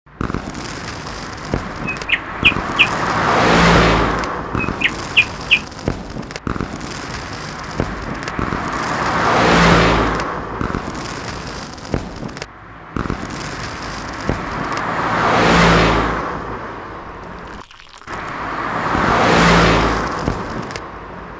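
Cars passing by on a road, one after another: four times the tyre and engine noise swells up and fades away. Twice in the first few seconds there is a quick set of three short high chirps.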